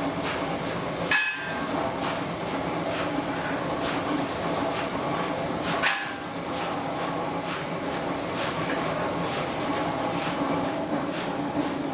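Metalworking shop machinery running steadily with a fast run of faint knocks, broken twice by a loud ringing clang of metal struck on metal, about a second in and again near the middle.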